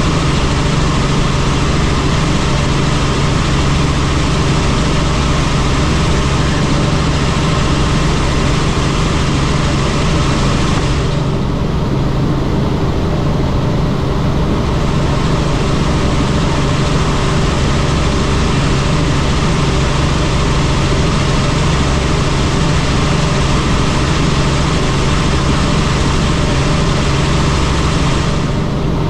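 Helicopter in flight: steady engine and rotor noise with a constant low drone. The higher hiss dips for a few seconds about eleven seconds in.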